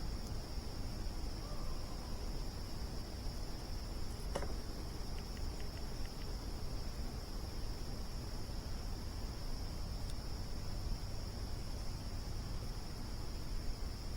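Crickets chirping in a steady, unbroken chorus over the low, steady noise of a campfire burning, with a single sharp crackle from the fire about four seconds in.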